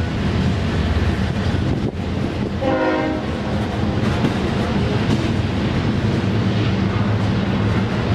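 Freight train of covered hopper grain cars rolling past: a steady rumble and clatter of steel wheels on the rails. A short tone with several pitches sounds for about half a second, about three seconds in.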